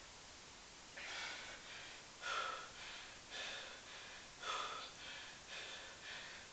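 A man's hard breathing from the effort of repeated one-leg squats: sharp, noisy breaths about once a second, the loudest about two and four and a half seconds in.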